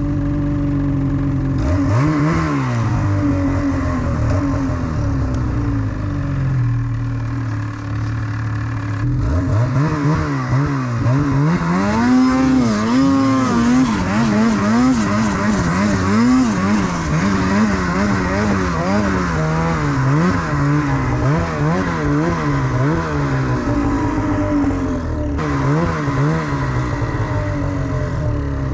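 Snowmobile engine running at a fairly steady pitch with one short rise, then, from about a third of the way in, revving up and down over and over in quick swings.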